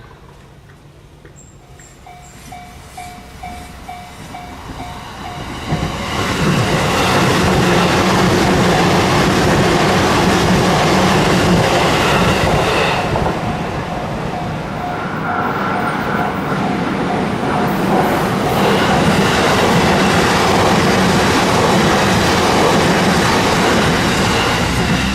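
Japanese railroad crossing warning bell ringing at about two strikes a second as an electric train approaches. The train then passes through the crossing, loud and rumbling from about six seconds in, easing briefly around the middle before running loud again.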